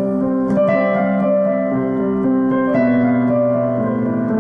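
Piano playing slow, sustained chords between sung phrases, moving to a new chord about half a second in and again near three seconds, recorded on a mobile phone.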